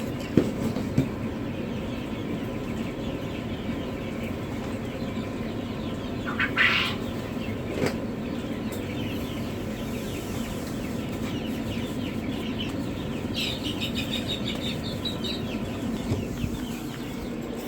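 Newly hatched turkey poults and ducklings peeping continuously over a steady hum. One louder call comes about six and a half seconds in and a run of calls about thirteen seconds in, with two sharp knocks near the start.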